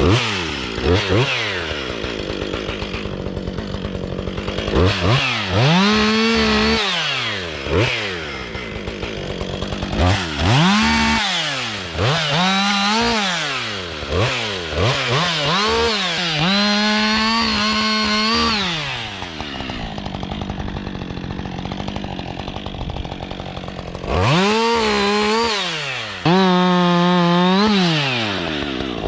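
Husqvarna 562 XP two-stroke chainsaw revving up and down over and over, with a few stretches held at full throttle, as it bucks a small blown-down tree.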